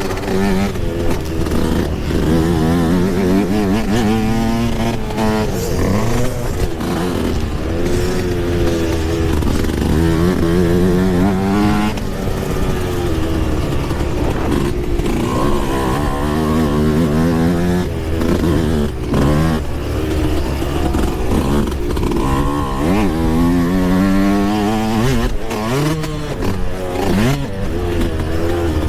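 Yamaha YZ125 two-stroke dirt bike engine ridden hard on a motocross track, its pitch rising and falling over and over as the throttle is opened and chopped through the gears. Occasional knocks and clatter from the bike over rough ground.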